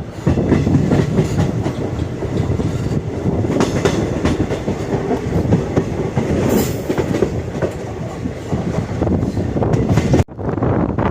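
Indian Railways train running along the track: a steady rumble with the wheels clattering over rail joints.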